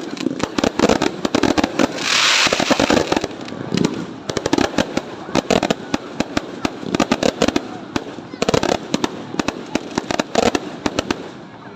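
Fireworks going off: rapid pops and crackles in quick succession, with a louder hissing burst about two seconds in.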